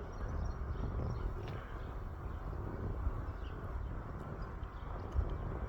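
Low, uneven rumble of a jet airliner's engines at a distance, with a few faint bird chirps above it.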